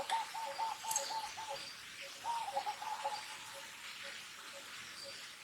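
Birds calling: a quick run of short, same-pitched notes at the start and another about two seconds later, over a faint single note repeated about twice a second.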